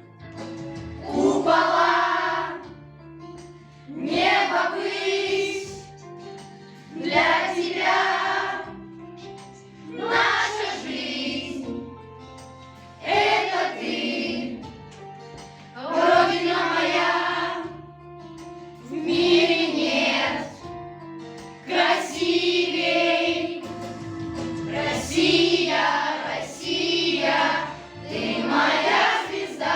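Children's choir singing with instrumental accompaniment, one phrase after another about every three seconds.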